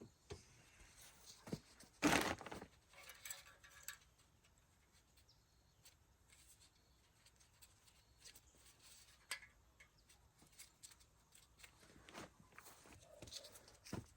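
Quiet handling noises: scattered light clicks and knocks, with one louder short scrape or rustle about two seconds in.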